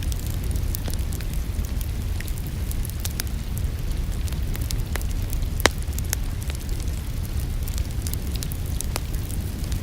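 Wood fire in a fireplace crackling over a steady low rumble, with scattered sharp snaps and one louder pop a little past halfway.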